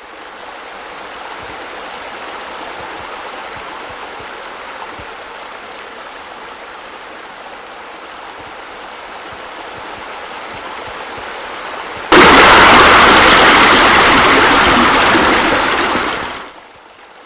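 Steady rush of falling water from a pool's rock waterfall. About twelve seconds in, a much louder rush of water cuts in abruptly, then fades away about four seconds later.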